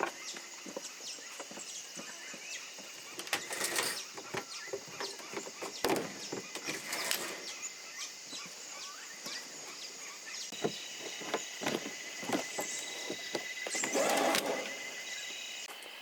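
Irregular knocks, clacks and rustles of gear being handled, with a few louder scraping bursts, over a steady high-pitched drone.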